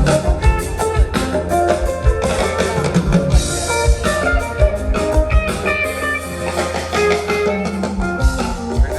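A live rock band jamming instrumentally: guitar playing melodic lines over bass and a drum kit, with a steady kick-drum pulse and a cymbal wash a few seconds in.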